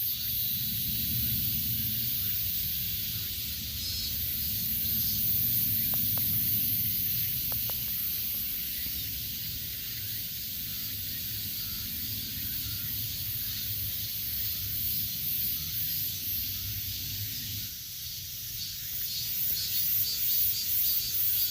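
Summer cicadas in a loud, steady chorus of high buzzing, pulsing more strongly near the end, with a low rumble underneath.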